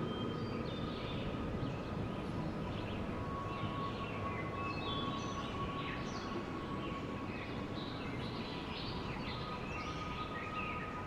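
Steady wind noise with many small birds chirping and twittering over it throughout, and a faint steady high tone underneath.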